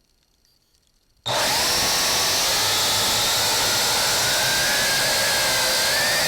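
Multirotor drone's electric motors and propellers starting up about a second in, then running with a steady whine that rises slowly in pitch.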